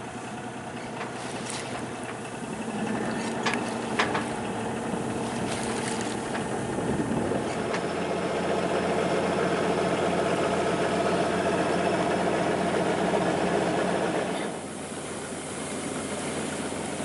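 A sailing yacht's inboard engine running steadily while motoring. It grows louder over the first half, with a couple of brief clicks around four seconds in, and drops back abruptly about fourteen seconds in.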